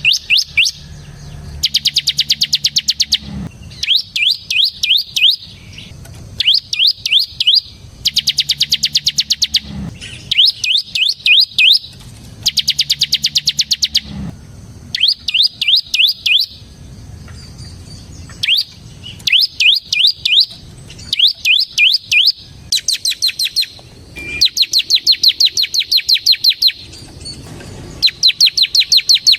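Bar-winged prinia (ciblek) singing: repeated loud phrases, each a fast, even string of sharp, high notes, the rapid drilling song keepers call ngebren, with short pauses between phrases.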